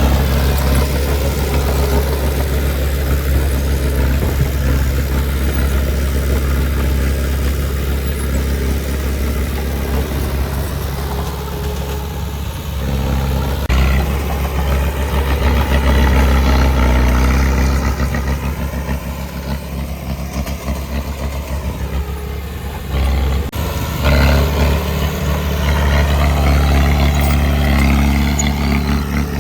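Heavy construction-machine diesel engine running steadily, its note and loudness shifting twice as the machine works.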